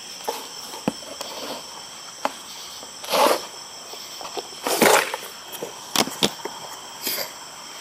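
Steady high-pitched insect chorus, cricket-like, with scattered sharp clicks and two louder rustling bursts about three and five seconds in.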